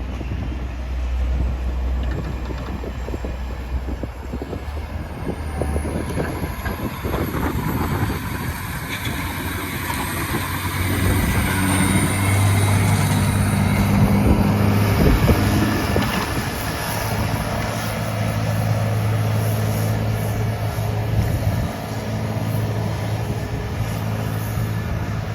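John Deere 770G motor grader's diesel engine running under load, its note rising about ten seconds in and holding there, over a steady rushing noise.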